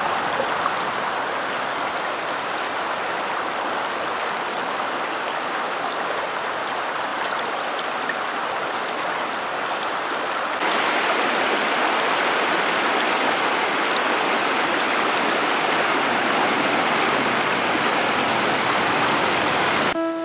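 Rushing water of a small stream swollen by heavy rain, with rain falling: a steady wash of noise that jumps louder and brighter about ten seconds in.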